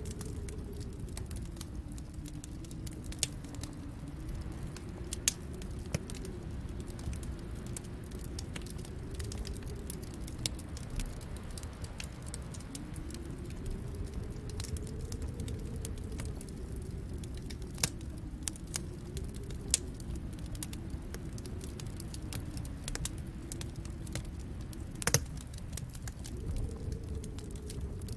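Wood fire crackling in a fireplace: scattered sharp pops and snaps, a few louder ones, over a steady low rumble with a faint tone that slowly rises and falls.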